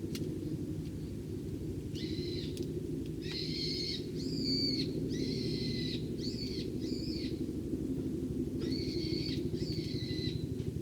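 Wild birds calling: about eight harsh, drawn-out calls, in bunches from about two seconds in, over a steady low hum.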